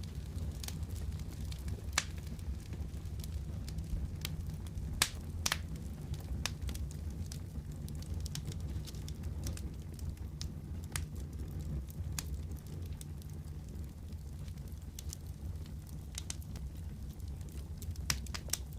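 Wood fire crackling over a steady low rumble, with sharp pops and snaps at irregular moments, the loudest about two and five seconds in.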